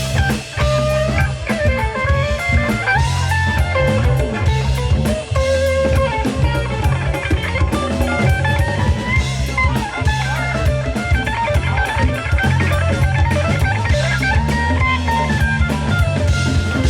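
Live band playing an instrumental passage: a guitar melody line over bass guitar and drum kit, with no vocals.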